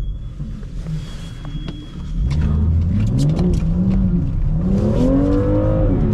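BMW M2's turbocharged inline-six engine, low at first, then revving hard from about two seconds in as the car pulls a U-turn on snow, the pitch climbing, dipping briefly and climbing again. Scattered sharp clicks sound over it.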